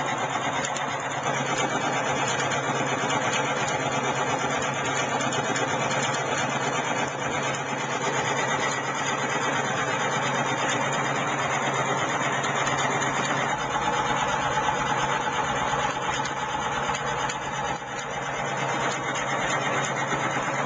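Homemade single-coil pulse motor running steadily with its rotor magnet spinning: a dense, even mechanical buzz over a steady low hum. A higher steady tone joins for a few seconds about two-thirds of the way through.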